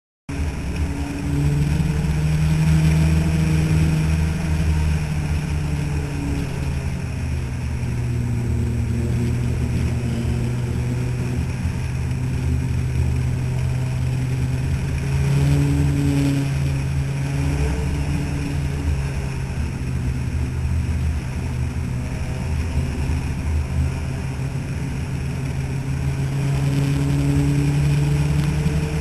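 Compact race cars running laps around a short oval, their engines droning together. The pitch rises and falls and the sound swells every dozen seconds or so as the pack comes around.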